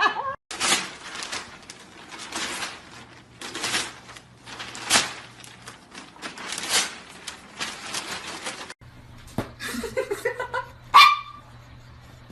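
A dog making noises: a run of short, noisy bursts, then after a break some short pitched cries and one loud bark near the end.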